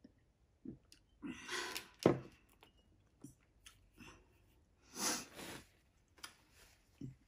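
Person chewing spicy ramen noodles, with several loud, hissy breaths and a sharp knock about two seconds in.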